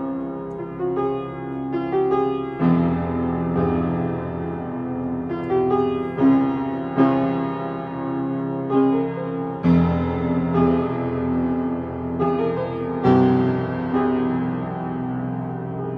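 Instrumental piano music: chords struck every second or so and left to ring, with a heavier struck chord about three, ten and thirteen seconds in.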